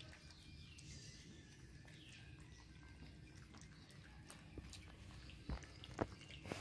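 Faint chewing and small clicks as grilled corn is picked and eaten, with two sharper clicks about five and a half and six seconds in.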